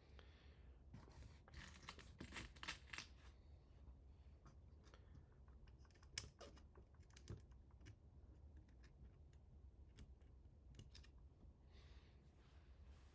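Faint clicking and rustling of small parts being handled, with a cluster of quick clicks in the first few seconds and one sharper click about six seconds in.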